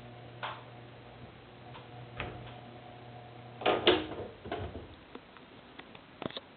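Roll-up screen winding mechanism running with a steady hum, which stops about three and a half seconds in with a couple of loud clunks, followed by a few scattered clicks. These clunks are the abnormal 'gattan, gattan' knocking that the screen makes while being rolled up.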